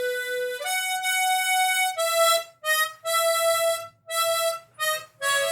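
Diatonic harmonica playing a short single-note melody: a run of held notes with short breaks, the longest about a second in. It is the 'fa mi re la la sol fa sol' phrase played on a stacked pair of A and A♯ harmonicas, the fa blown on the upper A♯ harp to sound a half step higher.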